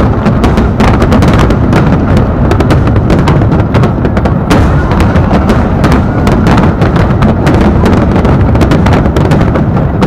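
Fireworks in a dense, continuous barrage: many sharp bangs and crackles overlap with deep booms, with no break.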